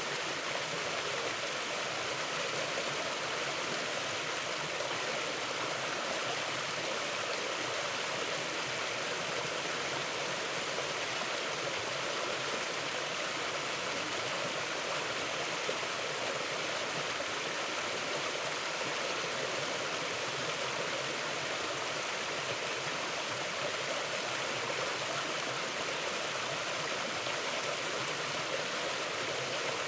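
Mountain river flowing over rocks: a steady, even rush of water with no pauses or distinct splashes.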